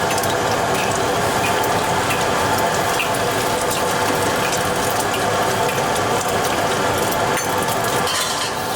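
Steady mechanical whirring of kitchen equipment, with a few light clicks and clatters scattered through it.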